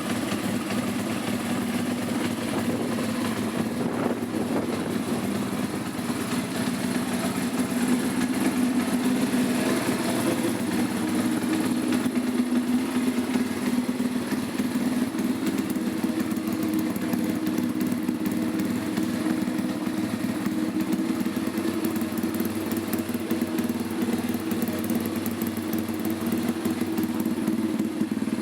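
DHZ 140cc pit bike's single-cylinder four-stroke engine idling steadily through a dual exhaust, with a small knock about four seconds in.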